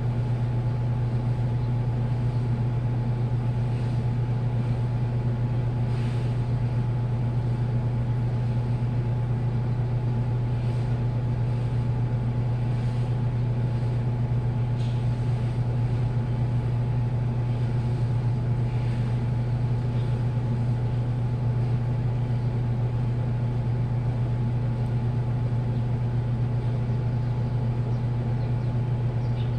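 Washing machine running steadily with a constant low hum and a few faint ticks.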